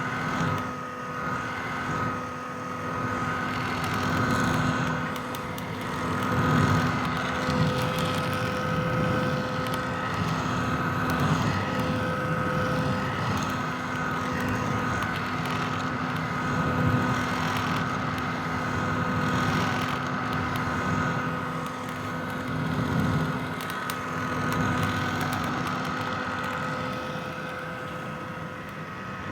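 Vintage hair dryer running steadily: a rush of blown air over a constant motor hum and whine, wavering slightly in loudness.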